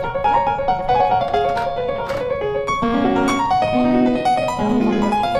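Background piano music, a melody of changing notes over lower accompanying notes.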